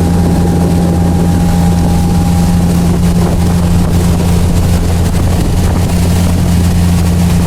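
Motorboat engine running steadily under way at a constant throttle, with wind noise on the microphone.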